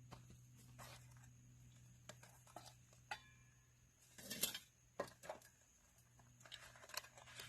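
Faint handling sounds: scattered light clicks and rustling, with a louder rustle about four seconds in, over a steady low hum.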